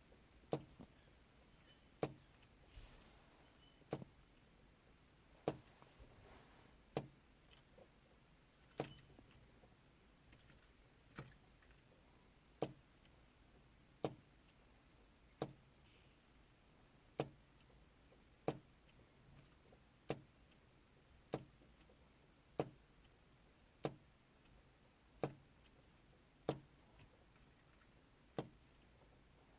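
Superb fairy wren tapping and striking at the car's glass about every second and a half: a long series of sharp, single taps, typical of a wren fighting its own reflection.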